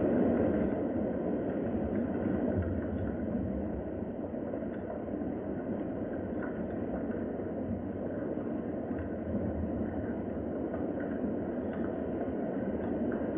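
Steady rain: an even rushing noise with a few faint ticks of drops scattered through it.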